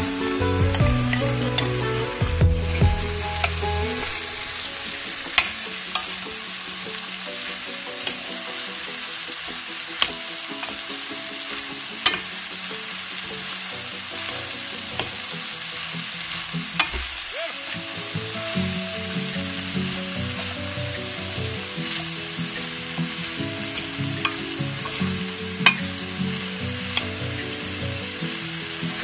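Ground pork, green bell pepper and onion sizzling in a stainless steel pan as they are stirred, with a sharp click of the stirring utensil against the pan every few seconds.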